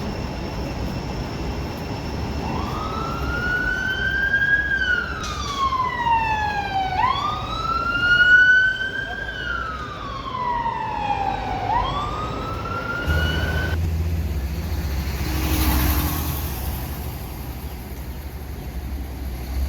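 Wail siren of a Honda ST1300P paramedic motorcycle, sweeping slowly up and down in pitch: it starts about two seconds in, runs two full rise-and-fall cycles, then cuts off partway through a third rise. A second, faster-sweeping siren tone overlaps in the middle. After the siren stops there is a low engine rumble and a brief rush of passing traffic noise.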